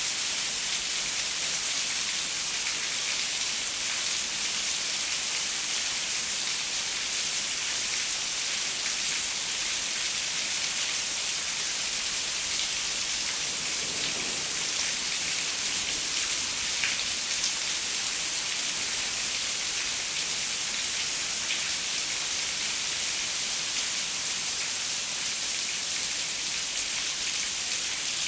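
Steady rain pattering on a window pane, an even hiss with scattered drop ticks.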